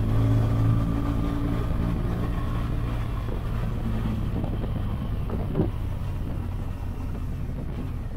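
BMW R 1200 GS boxer-twin engine running steadily under way, loudest at first and then easing off gradually. There is a single short thump about five and a half seconds in.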